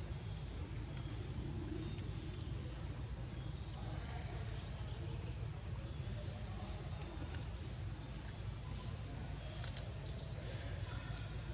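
A steady high-pitched drone of insects, with a few short high bird chirps scattered through it, over a steady low rumble.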